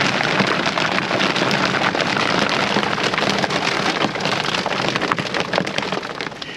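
Heavy rain pouring down, a dense patter of drops hitting the surfaces around the campfire, easing slightly near the end.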